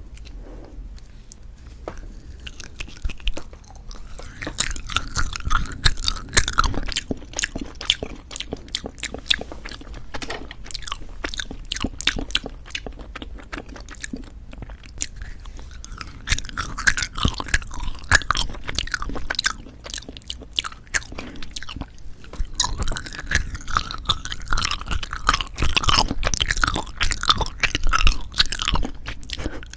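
Close-miked chewing and biting of jelly candies: a dense, irregular run of wet clicks and smacks that swells into louder stretches of chewing partway through and again in the second half.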